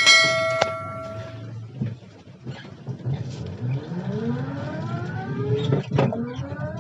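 A single metallic ringing note at the start that dies away over about a second and a half, then the e-rickshaw's electric motor and freshly serviced gearbox whining, rising steadily in pitch as it pulls away, with a sharp click near the end. The run has none of the 'kat kat' knocking from the gear teeth that the service was meant to cure.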